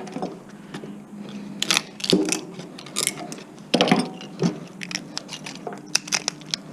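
Hand tools working on scrap electronics while a small transformer is taken out: irregular clicks, scrapes and crunches of metal and plastic.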